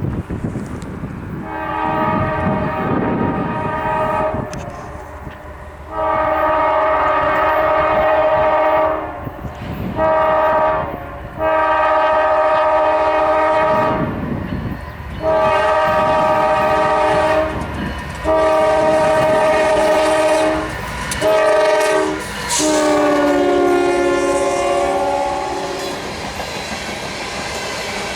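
Freight locomotive air horn, a chord of several notes, sounding a series of long blasts and one short one over the rumble of the approaching train. On the last long blast the pitch drops as the lead locomotive passes, and the rumble and clatter of the train carry on.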